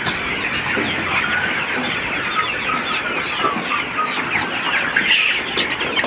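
A dense, continuous chorus of many broiler chicks peeping, the flock active and jostling for feed, with a brief rustle about five seconds in.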